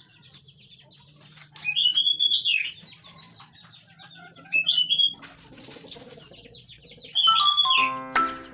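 A songbird singing loud whistled phrases that rise and fall, three bursts of song. Near the end a plinking melody starts.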